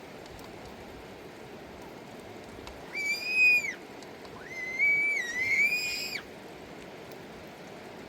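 Steady rush of river water, with two high, drawn-out whistle-like calls about three seconds in. The second call is longer and wavers in pitch.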